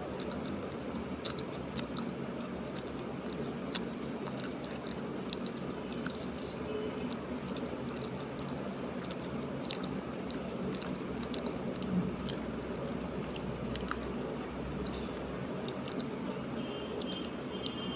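A person chewing and eating baingan bharta with rice and roti close to the microphone, with scattered small mouth clicks over a steady background hiss.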